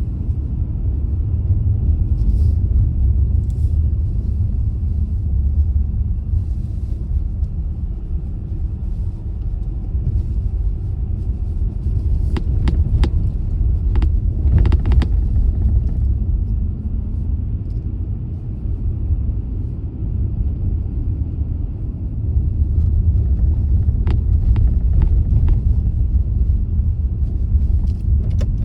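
Car driving along a road: a steady low rumble of tyres and engine that swells and eases a little, with a few short clicks partway through.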